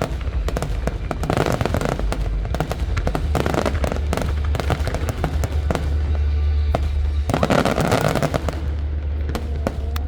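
Aerial fireworks display going off: dense rapid bangs and crackling, in waves that peak several times, thinning to separate pops near the end. Music plays underneath.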